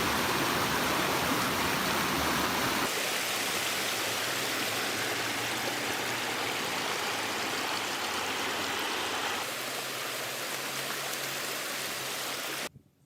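Running water rushing steadily, in three stretches that change abruptly about three and nine seconds in, cutting off suddenly near the end.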